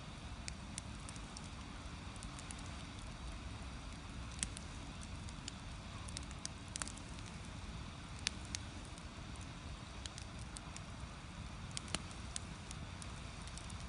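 Firewood burning in an agungi firebox under a cast-iron cauldron, crackling with irregular sharp pops and several louder snaps over a steady low rumble.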